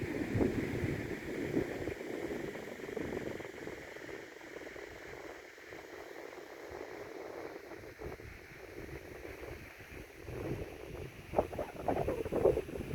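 Wind buffeting the microphone in uneven gusts, a low rumble that eases off in the middle and picks up again near the end, over a steady faint hiss.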